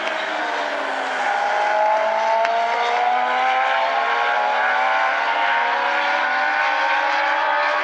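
A pack of Legends race cars, powered by Yamaha motorcycle engines, running at speed. Several engine notes overlap and rise steadily in pitch together as the cars accelerate.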